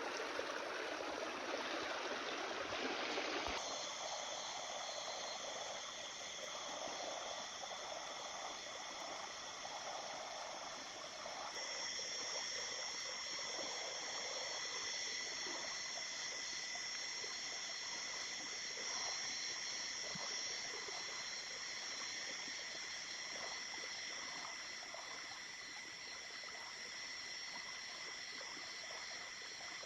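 Small river flowing steadily. The sound changes abruptly a few seconds in, and from about twelve seconds in steady high-pitched tones run over the water.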